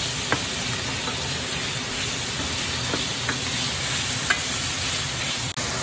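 Lamb chunks, carrots and onions sizzling as they fry in oil in a stainless steel pan, stirred with a wooden spatula that knocks lightly against the pan a few times. The sizzle drops out for a moment near the end.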